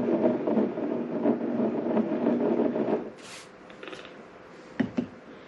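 Handling noise from lifting a beer glass to the nose for about three seconds. It cuts off, and a short sniff follows. Two light knocks come near the end.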